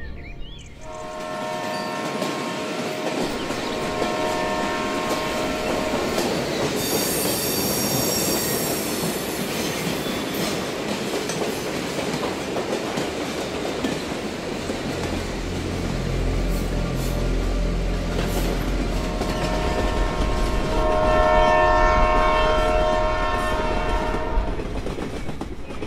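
A train running on the rails and approaching, sounding a long multi-note horn blast near the start and again for several seconds toward the end, the second blast loudest. About a third of the way in there is a high squeal, and a heavy low rumble builds over the second half.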